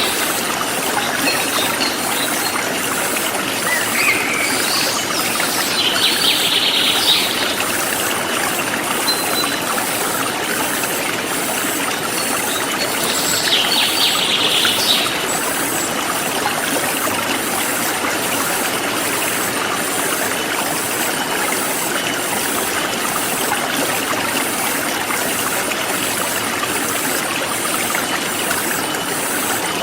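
Forest stream flowing and trickling steadily, with a few short bird chirps, one near the start, one at about a quarter of the way through and one near the middle.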